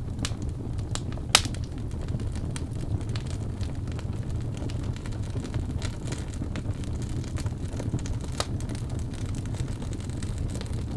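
Crackling fire: a steady low rumble of burning with scattered sharp pops and snaps, the loudest about one and a half seconds in.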